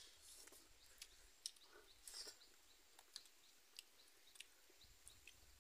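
Near silence with faint, scattered mouth clicks and smacks of people chewing a meat-and-rice meal eaten by hand.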